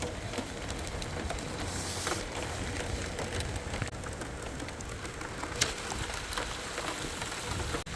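Car wash final rinse: water spraying steadily onto the truck.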